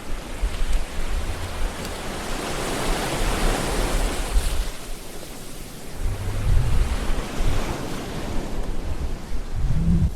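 Ocean waves breaking and washing up the shore, the surf swelling twice, with low rumbles of wind on the microphone.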